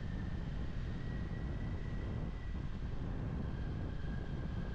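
Kawasaki Ninja 400's parallel-twin engine running steadily at cruise while riding, a low even rumble mixed with wind rush on the camera mic.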